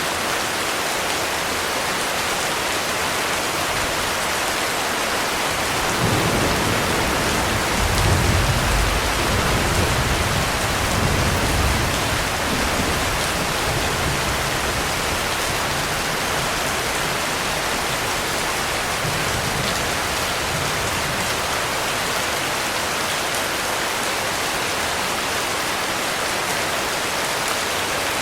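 Heavy rain falling steadily. About six seconds in, a low rumble of thunder swells up, is loudest for several seconds, then dies away.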